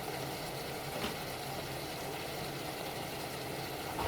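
Steady hum and hiss of kitchen noise during cooking, with a light click about a second in and another near the end.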